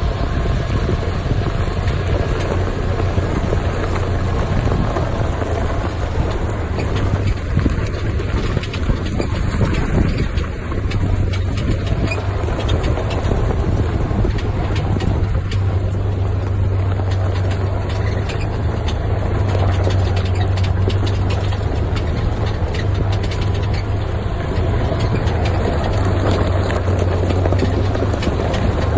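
Off-road vehicle engine running steadily with a constant low drone while driving down a rough, steep mountain trail, with frequent knocks and rattles from the bumpy ride.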